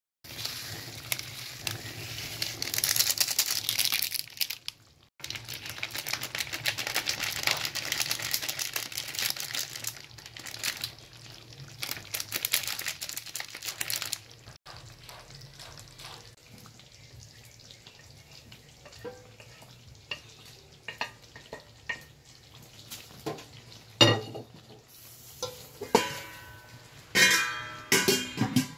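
Pork menudo sizzling in an aluminium wok while a wooden spoon stirs it, with a dense crackle through the first half. Near the end a metal pot lid clatters and rings several times as it is handled and set on the pot.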